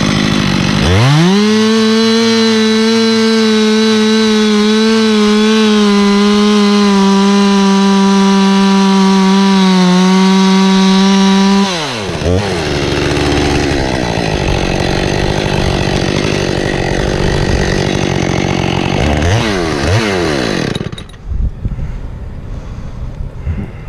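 Chainsaw cutting oak: about a second in the saw revs up to full throttle and holds there steadily for some ten seconds. It then drops back to idle, gives a couple of short revs, and falls away near the end.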